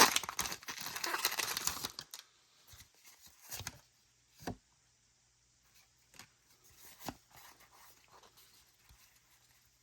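Foil booster pack of Pokémon cards being torn open, a crinkling rip lasting about two seconds, followed by a few soft clicks as the cards are handled.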